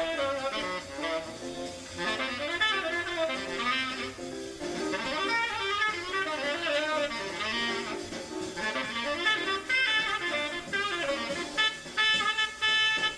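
Tenor saxophone playing fast bebop lines over a jazz rhythm section. The notes change quickly with short breaks between phrases, and near the end the saxophone hits a run of short repeated notes.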